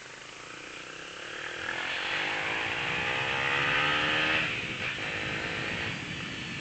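Motorcycle engine accelerating, its pitch rising steadily, then breaking off and dropping about four and a half seconds in, as at a gear change.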